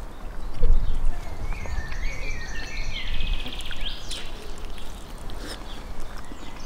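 Small birds chirping, with a quick high trill about three seconds in. A low rumble comes in about half a second in and is the loudest part.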